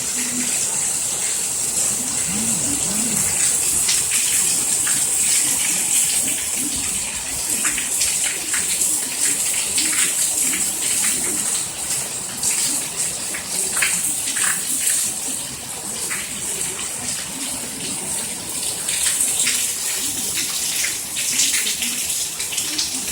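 Heavy rain pouring steadily: a dense hiss with many separate drop hits.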